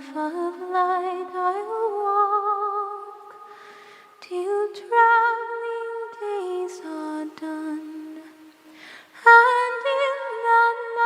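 Solo unaccompanied voice singing a slow hymn melody in long held notes with light vibrato. It pauses for a breath about four seconds in and again about nine seconds in.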